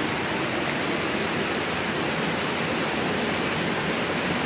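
Small rainforest river running over rocks: a steady, even rush of water.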